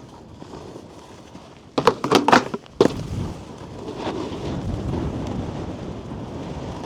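Snowboard running over snow with a steady rush. About two seconds in there is a quick cluster of about four sharp knocks and scrapes as the board hits a terrain-park feature, followed by a louder steady rush of the board sliding on snow.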